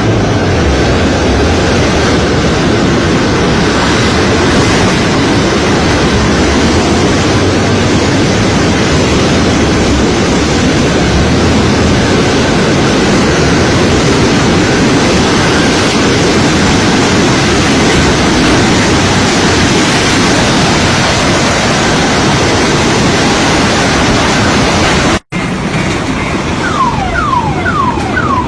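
Loud, steady rushing noise. After a sudden cut about 25 seconds in, the noise resumes, and near the end an alarm starts, repeating quick falling chirps about two to three times a second.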